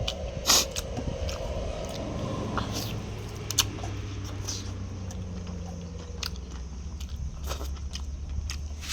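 A person biting and chewing chicken close to the microphone, with scattered sharp crunchy clicks, the loudest about half a second in, over a steady low background hum.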